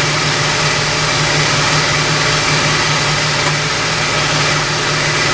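Loud, steady running of a motor-driven machine, a hum under a wide hiss, holding even throughout.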